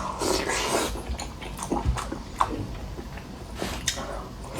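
A person eating hot hotpot shrimp paste close to the microphone: chewing and slurping with scattered small clicks.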